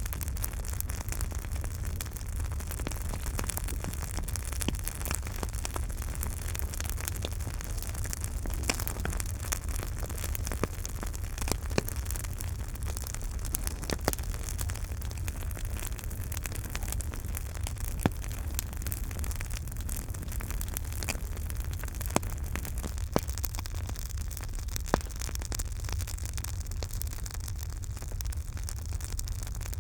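Campfire burning: a steady low rumble and hiss with scattered sharp crackles and pops, a few louder pops in the second half.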